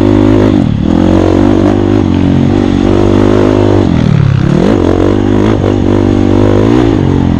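Dirt bike engine running loud under changing throttle, its pitch dipping briefly about a second in, falling sharply around four seconds in and climbing back.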